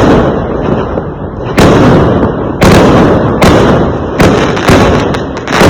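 Fireworks exploding in a quick series of loud bangs, about seven in under six seconds, each trailing off into a long noisy tail that fades before the next.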